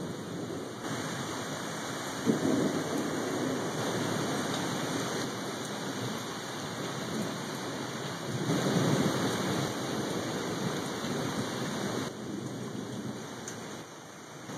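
Heavy rain falling in a thunderstorm, with thunder rumbling louder about two seconds in and again from about eight to ten seconds in.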